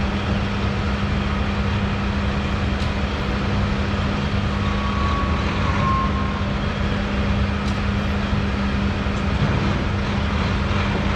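Steady road and engine noise of a moving vehicle, with a constant low hum.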